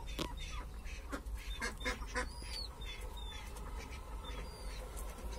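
Birds calling: a series of short chirps and calls, some sweeping in pitch, over a steady low hum.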